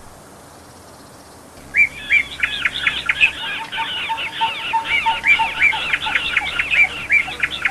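A songbird singing a fast, continuous warble of quick, varied high notes, starting a little under two seconds in.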